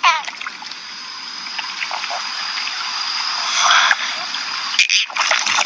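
Running water, a steady rushing that slowly grows louder, then cuts off suddenly near the end.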